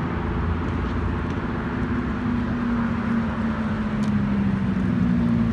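A car engine running steadily, its pitch rising slightly about two seconds in and then holding.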